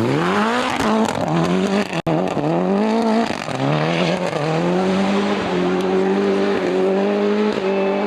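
Rally car engine accelerating hard, its revs climbing and dropping back with each upshift several times, then holding high and steady near full throttle.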